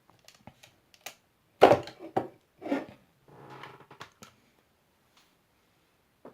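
Clicks, knocks and light scuffs of a 1/18 scale plastic toy helicopter being handled, the loudest knock about a second and a half in, followed by two more and a short rustle.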